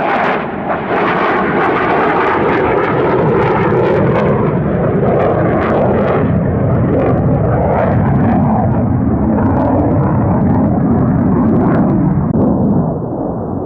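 An F-35A fighter's Pratt & Whitney F135 jet engine roaring loudly overhead. The high end of the roar dulls steadily as the jet pulls away, and it drops off slightly near the end.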